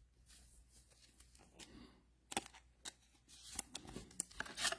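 Faint, scattered rustling and clicking of trading cards and pack wrappers being handled, growing busier about halfway through.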